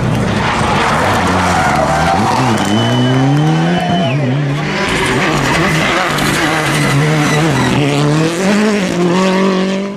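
Rally car engine under hard acceleration, its pitch climbing and falling again and again as it shifts through the gears and lifts off for corners.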